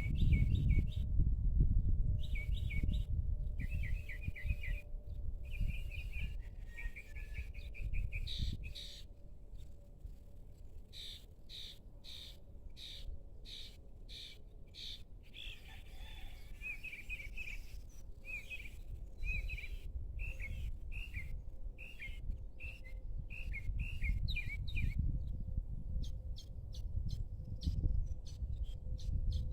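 Songbirds chirping in short, repeated calls, over a low rumble that is louder near the start and the end.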